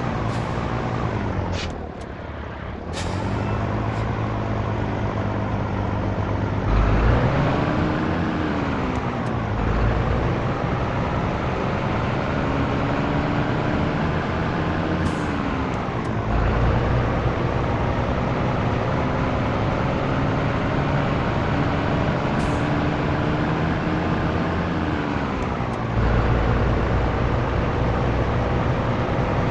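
Scania T113 truck's 11-litre six-cylinder diesel pulling through the gears. The engine note climbs, then drops sharply at each of about three gear changes, with a few short hisses of air.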